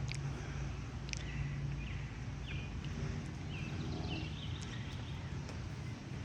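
Several short bird chirps over a steady low hum, with a few faint clicks.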